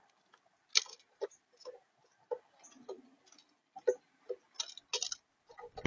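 Irregular clicks and taps on a camera bird feeder, with a louder knock near the end.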